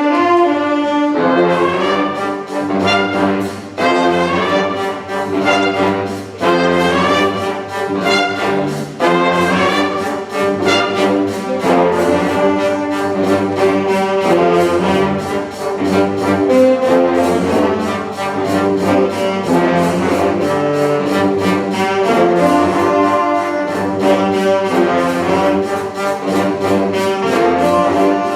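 A wind band playing a loud passage, the brass prominent in sustained chords over a steady percussion beat.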